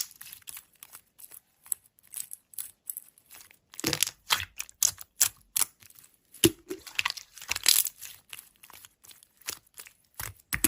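Slime being squeezed and worked by hand, giving irregular short crackling and popping clicks.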